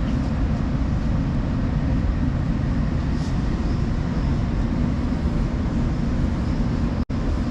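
Odakyu Line rapid express train running at speed, a steady low rumble of wheels on rails and running gear heard from inside the car. The sound cuts out for an instant near the end.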